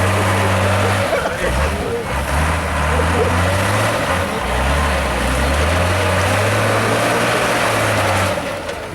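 Heavy off-road trial truck's diesel engine working hard under load, its note rising and falling several times, then easing off about eight seconds in.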